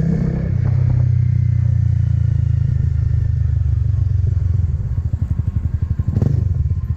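Motorcycle engine running at low revs, its firing pulses becoming distinct about halfway through, with a single knock about six seconds in.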